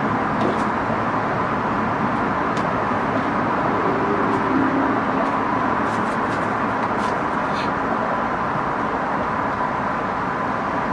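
Steady wind noise on the microphone, with a few light clicks and taps.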